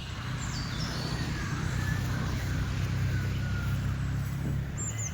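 Birds calling outdoors with a few short falling whistles, near the start and again near the end, over a steady low hum.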